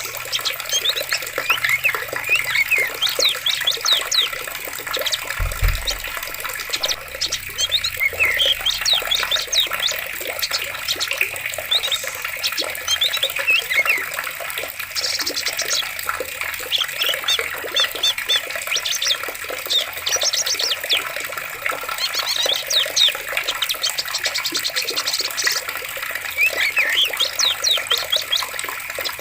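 Steady running water in a forest with many small birds chirping and twittering over it throughout. A brief low thump comes about five seconds in.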